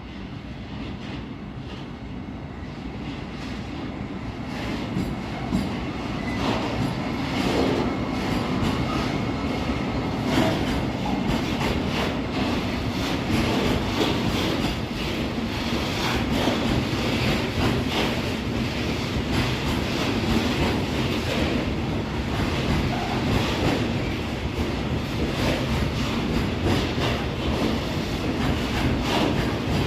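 Train rolling past at close range, getting louder over the first several seconds and then holding steady, its wheels clacking over rail joints and points.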